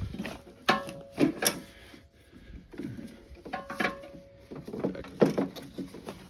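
Small metal tool clicking and scraping against a piston as it pries at the wrist-pin retaining clip, with several sharp clinks and a brief faint ring.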